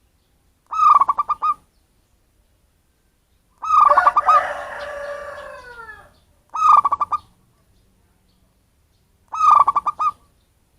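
Zebra dove (perkutut) cooing: four short phrases, each a quick run of staccato notes, spaced about three seconds apart. The second phrase trails into a fainter falling sound lasting about two seconds. It is the wild local bird's call, used as a lure call for other zebra doves.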